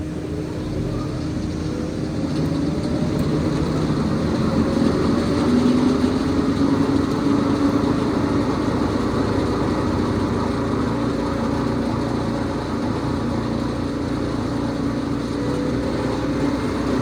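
A heavy engine running steadily, rising a little in pitch and loudness about five seconds in, then settling.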